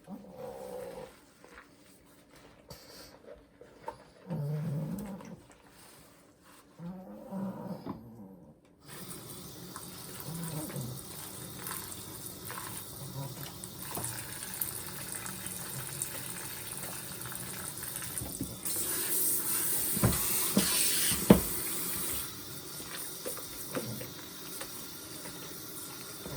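Three short whines from an elderly pug in the first eight seconds, then water running steadily into the bath, louder for a few seconds past the middle, with a couple of sharp knocks.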